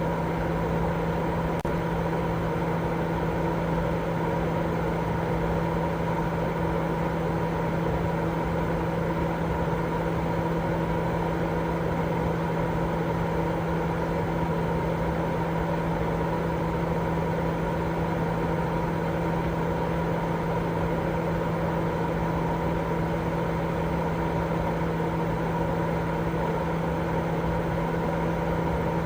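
Continuous baby-sleep white noise: an even hiss carrying a steady low hum and a couple of fixed higher tones, with no change in level.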